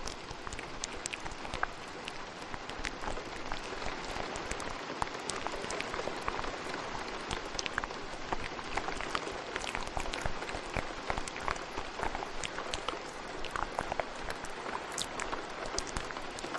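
Steady rain hiss with wet ASMR mouth sounds layered over it: many quick, irregular clicks and smacks.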